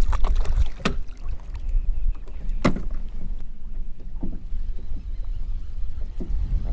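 Wind rumbling on the microphone aboard a fishing kayak, with a few sharp knocks, the clearest a little under a second in and nearly three seconds in.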